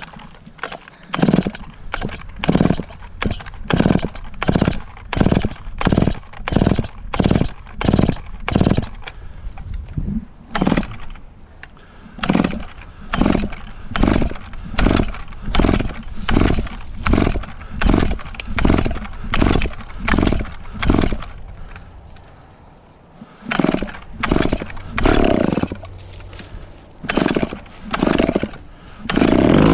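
Vintage chainsaw being pull-started: the starter cord is yanked over and over, about twice a second, without the engine catching. After a short pause the pulls go on, and the engine catches and keeps running right at the end.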